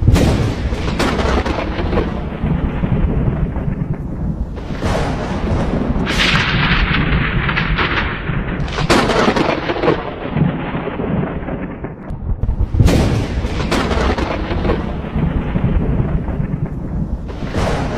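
Thunderstorm: thunder cracks several times, each crack rolling away into a deep rumble, over steady rain.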